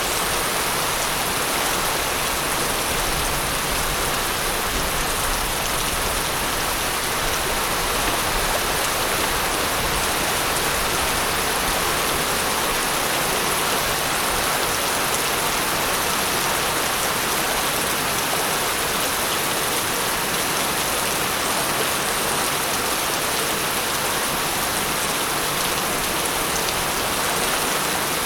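Steady rain falling, an even hiss of drops with no thunder heard.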